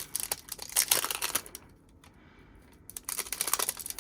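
Album packaging crinkling and rustling as it is handled and opened, in two bursts: one about a second in and another near the end.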